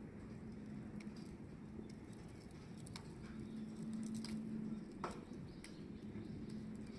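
Wood fire crackling in a fire pit: scattered sharp pops and snaps, with a louder pop about five seconds in, over a low rumble and a faint steady hum.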